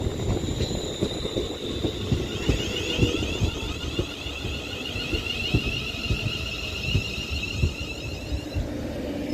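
Class 350 electric multiple unit slowing to a stop at the platform: wheels knocking over the rail joints under a high, pulsing whine. The whine dies away near the end as the train comes to a stand.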